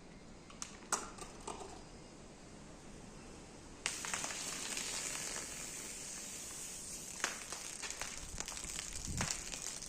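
A few sharp clicks, then about four seconds in a sudden, steady hiss with scattered crackles: a carbonated soft drink fizzing as its gas escapes.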